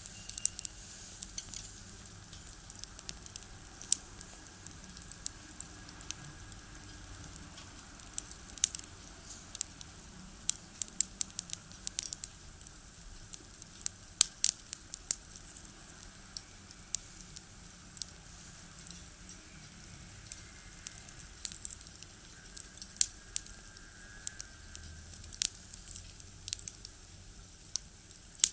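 Wood fire burning in a small box stove, the firewood crackling with many sharp, irregular pops over a faint steady hiss.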